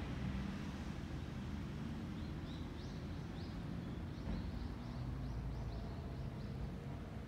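A small bird singing a run of short, high, rising chirps, starting about two seconds in and stopping about a second before the end, over a steady low rumble.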